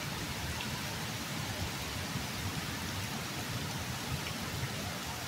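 Heavy rain pouring steadily onto wet pavement and tree leaves.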